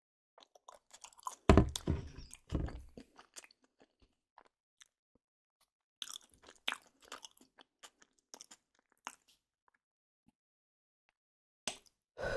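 Irregular crunching and crackling in short bursts, with quiet gaps between them.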